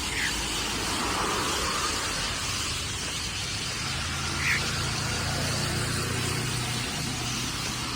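Steady city street traffic noise with a vehicle's low engine hum passing through the middle, and a short bird chirp right at the start and another about halfway.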